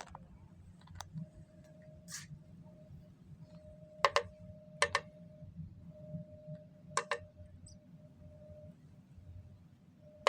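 A bird pecking its beak against window glass: sharp taps, mostly in quick pairs, a second or more apart, with the loudest doubles about four, five and seven seconds in and again near the end. A faint steady hum runs underneath.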